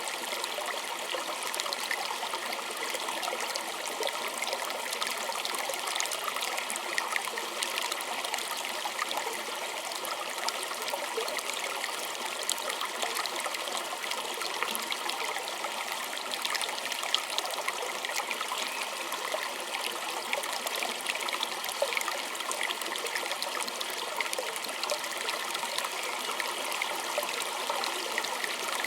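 Small stream trickling and splashing steadily, a dense bright babble of many small splashes.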